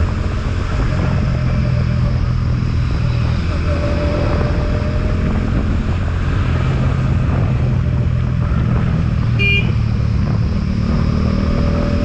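Motorcycle engine running steadily as the bike rides along, with its pitch drifting slightly and wind rushing over the microphone. A short horn beep sounds about nine and a half seconds in.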